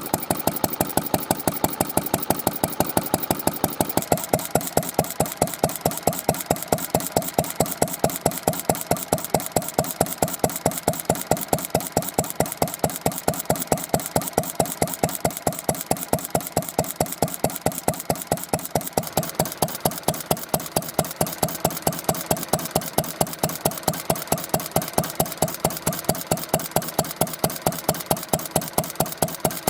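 Isami MB-20 single-cylinder kerosene stationary engine running steadily at low speed, each firing stroke a sharp beat, about five a second. The tone shifts slightly about four seconds in, then stays even.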